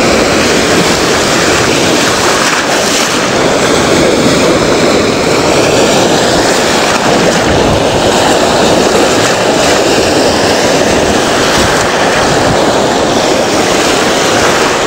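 Ocean surf breaking and washing up the beach, a steady loud rush, with wind noise on the microphone.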